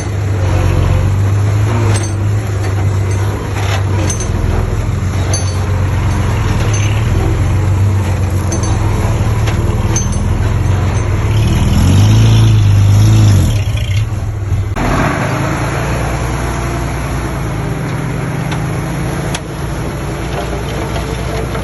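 Diesel engines of earthmoving machinery, the dump trucks and small bulldozer, running steadily under load with scattered metallic clinks. Past the middle the engine revs up and back down, then runs on.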